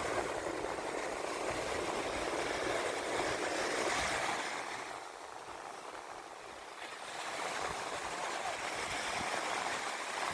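Gulf of Mexico surf washing on the beach, with wind buffeting the microphone. The noise eases for a few seconds in the middle, then builds again.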